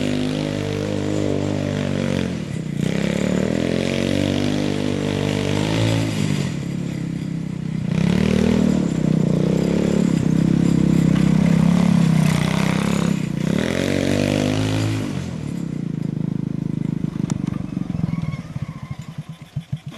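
Engine of a Yerfdog Spiderbox go-kart buggy revving up and falling back several times as it is driven, then dropping to a slow, uneven idle near the end.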